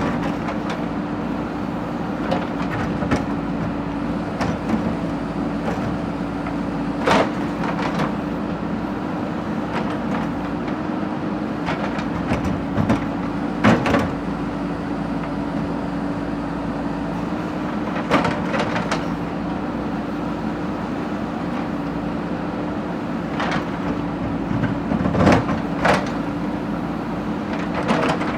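Backhoe loader's diesel engine running at a steady speed, with a sharp metallic clank or knock every few seconds.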